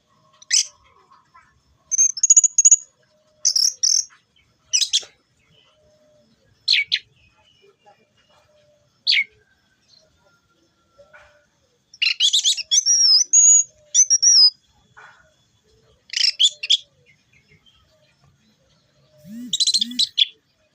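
Orange-headed thrush (anis merah) singing in short phrases of high whistles and chirps with pauses between them, with a longer run of song about twelve seconds in.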